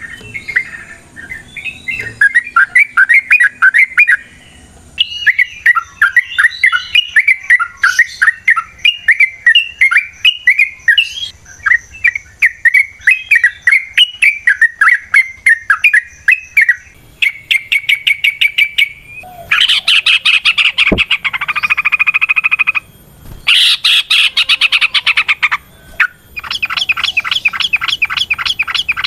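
Yellow-vented bulbul (trucukan) singing long, fast runs of chirping notes. Around two-thirds of the way through, the song turns into a rapid trill and harsher, denser bursts of chattering.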